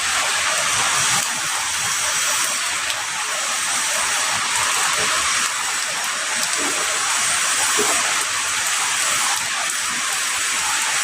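Heavy rain pouring steadily, a dense even hiss with no thunder.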